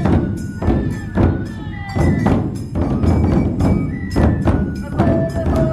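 Traditional Matsue dō festival music: a large drum is struck in a steady beat about twice a second, under a bamboo flute melody of held notes that slide in pitch.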